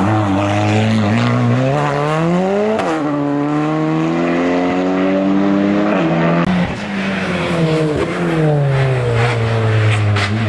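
A hill-climb race car's engine revving hard as it climbs. The pitch rises to a peak about three seconds in, then falls away steadily and starts rising again near the end.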